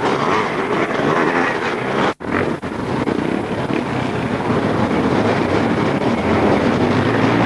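Motocross motorcycles racing, their engines running hard and mixing together. There is a brief break about two seconds in, after which the engines carry on.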